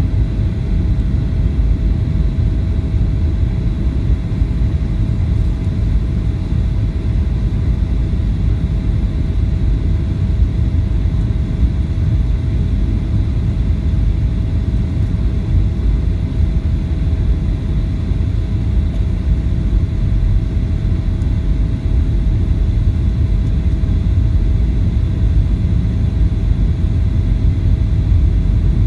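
Boeing 737-800 airliner heard from inside the cabin: a steady, loud low rumble of engine and airflow noise with a faint constant whine above it.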